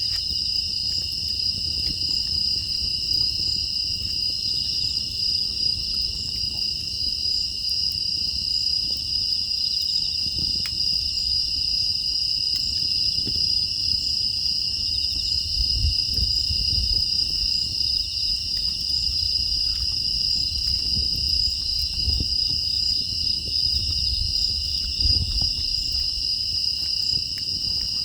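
Crickets and other grass insects chirring in a steady night chorus, high-pitched and unbroken, with faint scattered ticks and a low rumble underneath.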